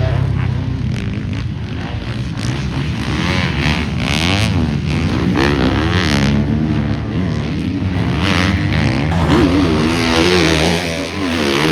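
Several motocross bikes lapping the track, their engines revving up and down through the gears with overlapping pitches.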